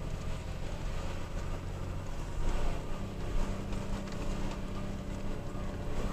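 Toyota Tacoma pickup engine running steadily at low trail speed, with frequent small knocks and rattles from the truck bouncing over a rough dirt trail.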